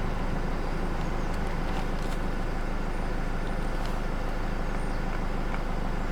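Steady low hum and hiss of the vehicle's cabin background, with a few faint clicks.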